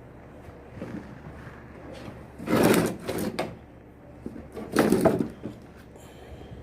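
Two short scraping rattles, each under a second, about two seconds apart, with a smaller knock just after the first: hard objects being handled and moved.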